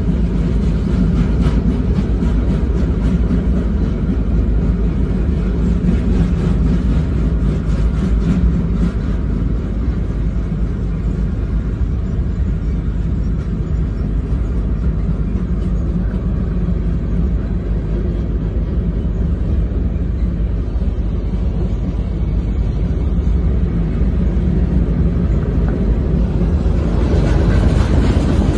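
Freight train rolling past, a steady low rumble of its wheels on the rails, with faint rapid ticking in the first several seconds and a slight swell near the end.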